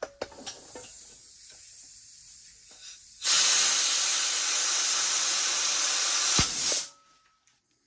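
Compressed air hissing into a dirt bike's inner tube through the valve stem, giving the tube a shot of air so it sits straight inside the tire. A softer hiss runs for about three seconds, then a loud, steady blast for about three and a half seconds that cuts off abruptly, with a single knock just before it ends.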